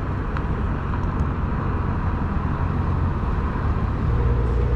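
Steady low rumble of a vehicle's engine and tyre noise as it drives slowly, pulling a broken-down car on a tow strap. The rumble grows a little louder near the end.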